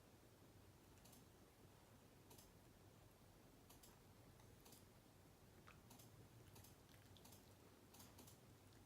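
Near silence: quiet room tone with a low hum and faint, sharp clicks at irregular intervals, roughly one a second.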